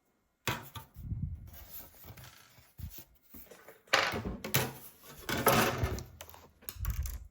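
Rubbing and scraping of hands and parts during a laptop repair, in several irregular bursts, loudest about four and five and a half seconds in.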